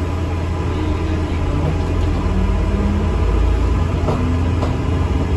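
ADL Enviro 400 MMC double-decker bus heard from inside while it is moving: a steady low engine and road rumble, with faint short whining tones and a couple of light rattles about four seconds in.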